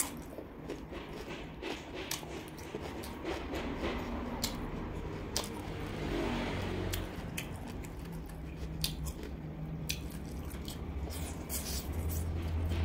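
Close-miked eating sounds: biting and chewing crunchy cucumber and roast duck, with scattered sharp crunches and wet mouth clicks.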